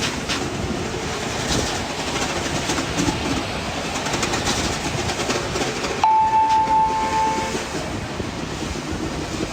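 Train-like clattering and rattling, mixing a city recording with a percussion imitation of it, full of small quick clicks. About six seconds in, a single clear high tone sounds suddenly and holds for about a second and a half before fading.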